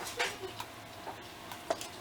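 Close-miked chewing and lip-smacking while eating a taco: a few wet mouth clicks spaced irregularly, over a faint steady hum.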